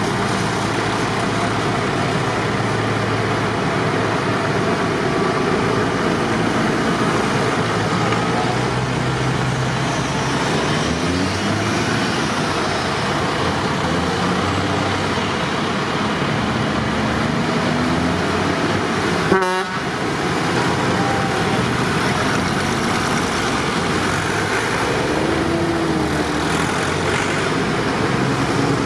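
Tractor engines running and passing by in a steady procession, with pitch rising and falling as they go. A single sharp knock comes about two-thirds of the way through.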